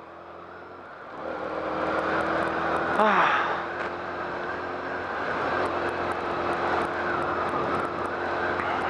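BMW K1200R motorcycle's inline-four engine running steadily under way, with wind rush on the microphone. The noise grows louder about a second in as the bike picks up speed, and a brief falling tone sounds about three seconds in.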